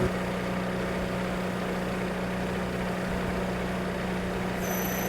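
An engine running steadily at a constant speed, with a short high whistle near the end.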